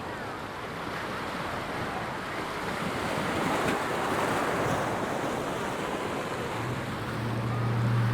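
Surf washing onto a sandy beach, swelling to a peak about halfway through, with wind on the microphone. Near the end a low steady engine hum comes in.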